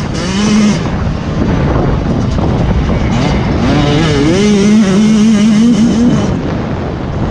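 Motocross motorcycle engines revving under throttle, the pitch climbing and dropping as the rider works the throttle. One bike's note is loudest from about four to six seconds in.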